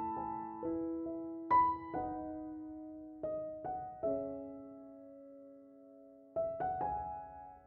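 Calm, slow piano music: sparse single notes and soft chords, each struck and left to ring and fade.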